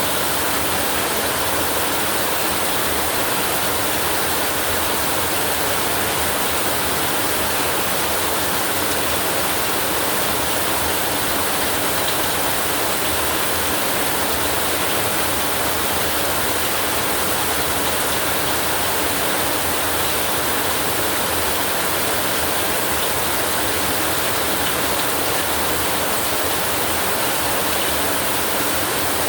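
Steady, even rain hiss with no thunder.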